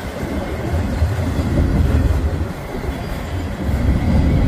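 Freight cars of a fast-moving train rolling past: a steady, loud low rumble of steel wheels on the rails.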